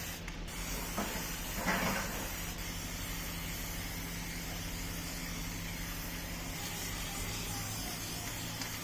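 Electric table fan running steadily: a continuous rush of air over a low motor hum, with one short rustle about two seconds in.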